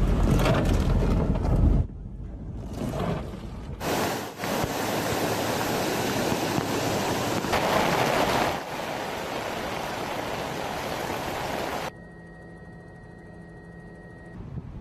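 Steady rushing noise of heavy rain and floodwater, in sections that change abruptly, loudest in the middle; the last few seconds are quieter, with a steady hum.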